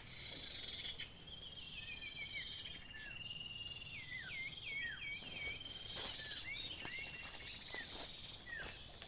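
Small birds calling with many short, sharply falling chirps, one after another and sometimes overlapping, over a steady high insect drone.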